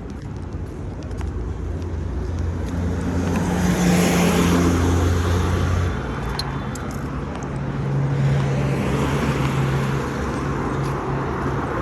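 Street traffic: two motor vehicles pass close by one after the other, the first loudest about four seconds in, the second around eight seconds in, over a steady background of road noise.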